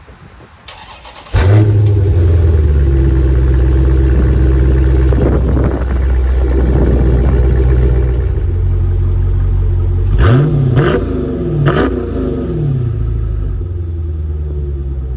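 Dodge Challenger Scat Pack's 392 HEMI V8 starting up about a second and a half in and running at a steady fast idle through its exhaust, then revved in three quick blips near the end before settling back.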